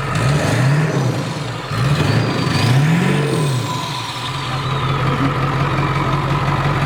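Truck engine blipped by the throttle several times, its note rising and falling with each blip, with a high whistle climbing and falling along with the revs. After about four seconds it settles to a steady idle. The engine has a small exhaust leak.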